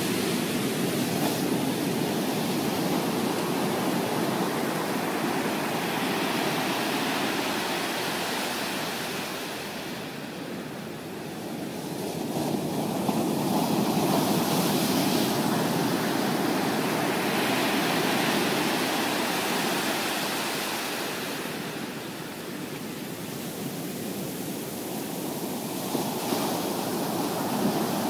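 Typhoon swell breaking on the beach: a continuous rush of surf that swells and eases as sets come in, dropping twice into quieter lulls between them.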